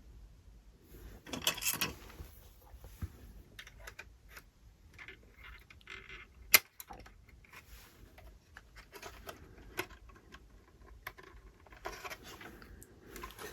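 Small plastic model-kit parts being handled and pressed into place: scattered light clicks and taps, with a short rustle early on and one sharp click about six and a half seconds in.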